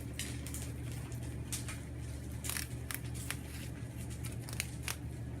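Moluccan cockatoo biting and tearing at mint leaves, a scatter of crisp snaps and crackles over a steady low hum.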